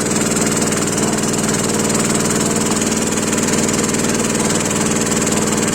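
Small engine on a farm watering boat running steadily at an even speed.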